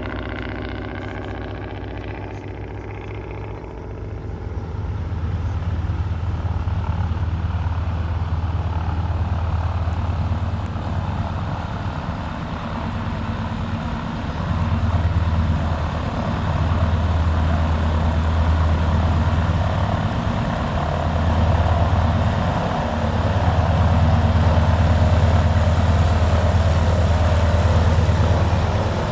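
Engine running at low speed: a steady low drone that swells and eases several times. A higher whine fades out over the first few seconds.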